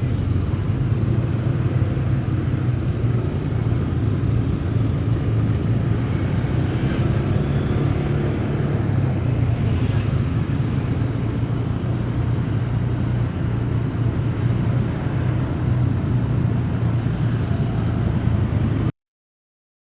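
Motorcycle engine running steadily while riding in city traffic, with a steady low hum and road and traffic noise around it. The sound cuts off suddenly near the end.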